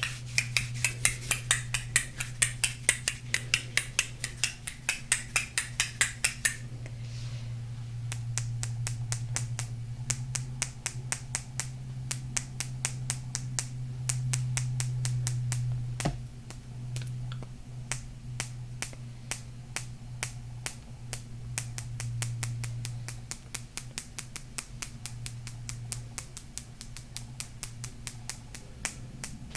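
Fingernails tapping and scratching on golden crystal stones in quick, even strokes, about four or five a second. The strokes are loud and crisp for the first six seconds, then lighter for the rest, over a steady low hum.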